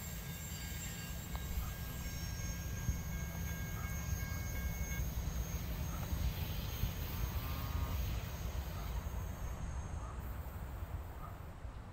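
Freight train cars rolling past with a steady low rumble. Thin, steady wheel squeal is heard at first and stops about halfway through, and the rumble eases off near the end.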